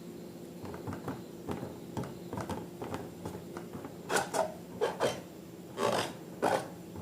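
Slime being worked by hand: a series of irregular scraping, rubbing strokes, louder and fuller in the second half, over a faint steady hum.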